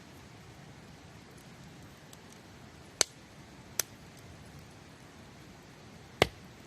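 Campfire burning, with three sharp pops and a few faint crackles over a low hiss.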